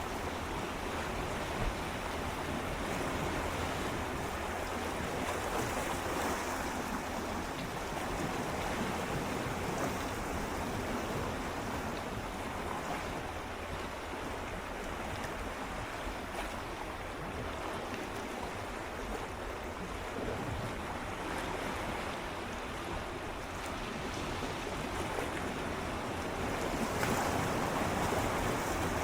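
Gentle sea waves swirling and lapping against shoreline rocks, a steady wash of water that swells and eases, a little louder near the end.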